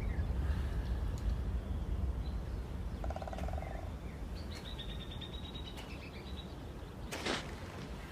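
Outdoor nature ambience: a steady low rumble with birds calling over it. About three seconds in comes a short rapid trill, then a falling series of high chirps, and a brief rustling burst near the end.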